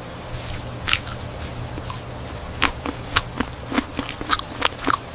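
Dragon fruit being bitten and chewed, eating-ASMR style: a run of crisp, sharp crunches several times a second, starting about half a second in, over a low steady hum.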